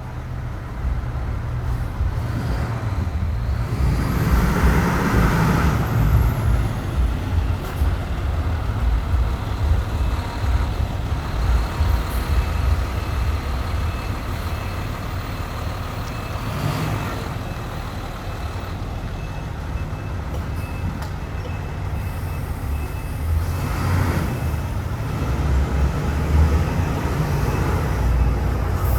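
Fire truck's diesel engine running at low speed, with a few short hisses of air brakes.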